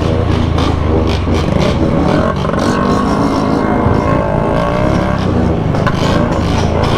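Several motorcycle engines running and revving together, with engine pitch gliding up and down in the middle.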